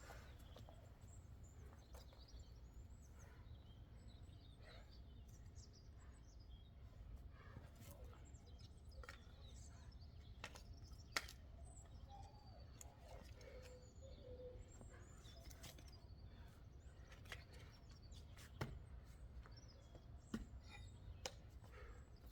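Faint outdoor ambience with birds chirping now and then, a steady low rumble, and a few sharp clicks or knocks.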